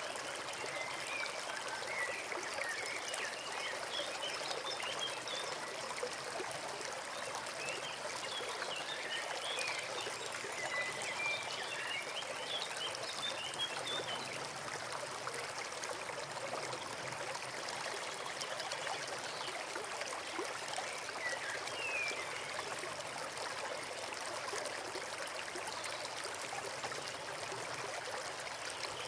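Forest stream running steadily, a constant babbling and trickling of water. Small high bird chirps come and go over it through the first half and once more about two-thirds of the way through.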